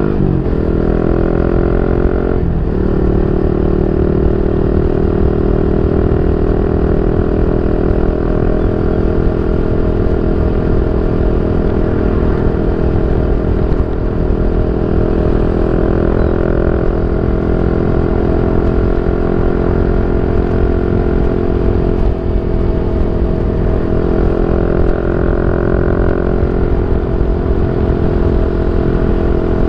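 Yamaha Y15ZR's 150cc single-cylinder engine running through a YYPANG SD3 aftermarket exhaust. Its pitch drops sharply twice in the first few seconds, then holds steady for the rest.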